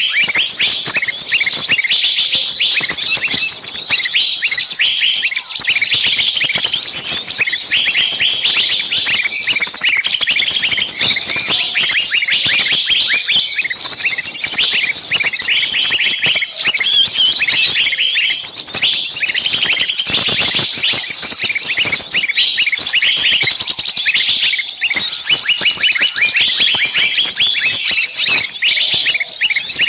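Bird-lure recording of many small birds calling at once: a loud, unbroken din of shrill, rapid chirps and screeching distress calls, the sound of a small bird caught and screaming with others clamouring around it, used to draw small songbirds in.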